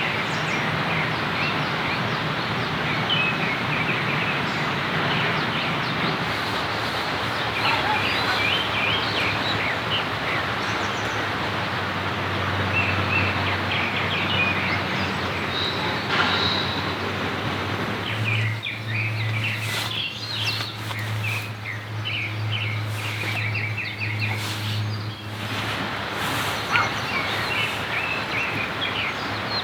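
Steady rain hiss with birds chirping now and then. For several seconds past the middle the rain thins and a low steady hum is heard under it.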